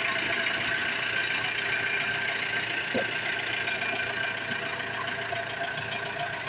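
Road roller's engine running steadily with an even hum, just after being started with the self-starter.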